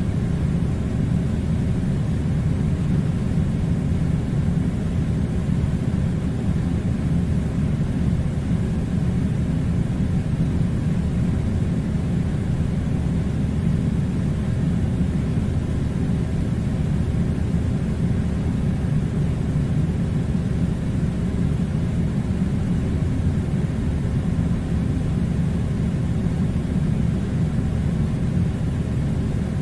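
Steady low rumble of noise that never changes, with no separate sounds in it.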